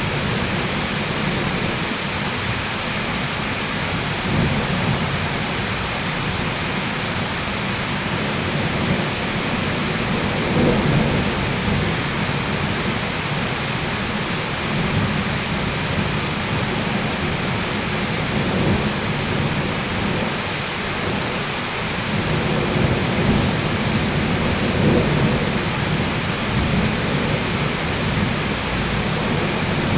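Thunderstorm: steady heavy rain hissing, with low rolling thunder swelling up several times.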